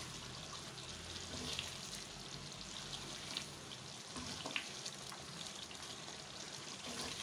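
Mutton pieces in a thick tomato-and-yogurt masala sizzling steadily in hot oil in a nonstick pan, with a wooden spatula stirring and scraping through the curry now and then.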